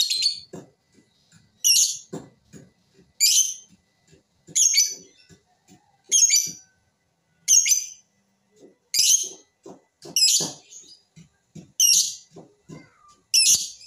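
A bird calling, one short high call repeated nine times at about one every one and a half seconds, with soft low taps in between.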